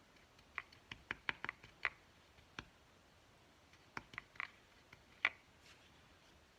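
Light clicks and taps from painting supplies being handled. There is a quick run of about six in the first two seconds, a few more around four seconds, and one sharper tap a little after five seconds.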